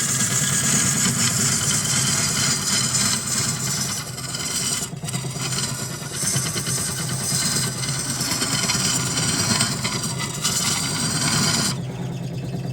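Wood lathe running with a steady motor hum while a turning tool cuts into the spinning wood, a continuous scraping hiss with short breaks about five and ten seconds in. The cutting stops sharply near the end, leaving the lathe's hum.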